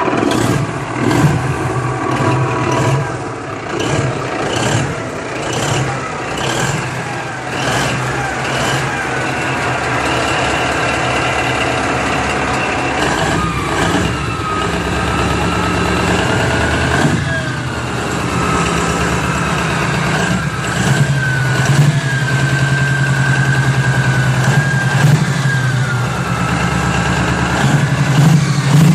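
A large engine starting and running: slow, evenly spaced beats for the first several seconds, then a steadier running note whose pitch drifts up and down.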